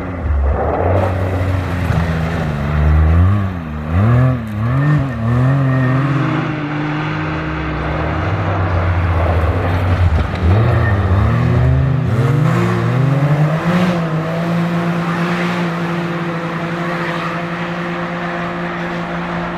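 Several rally-raid competition vehicles driving past one after another, their engines revving up and down repeatedly as they work through the stage, then an engine holding a steadier note near the end.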